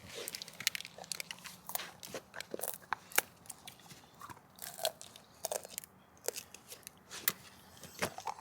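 A dog eagerly crunching and chewing a hard treat, with a quick, irregular run of crunches and clicks.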